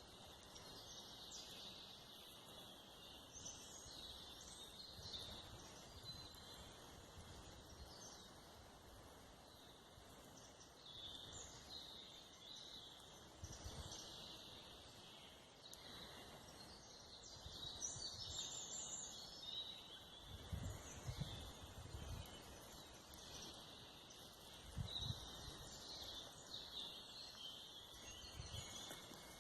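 Faint birdsong: several birds chirping and trilling on and off throughout. A few low rumbles come in about two-thirds of the way through and again near the end.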